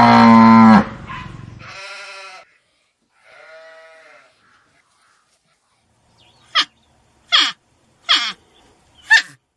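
Animal calls: a loud, low call ends about a second in, two fainter calls follow, and then four short, sharp calls come about a second apart, each dropping in pitch.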